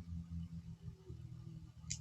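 Quiet room tone with a low, wavering hum and a single sharp click near the end.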